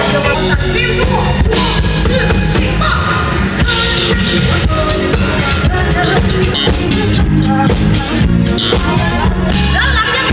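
Live band music played loud through a concert PA sound system, with a drum kit and heavy bass throughout.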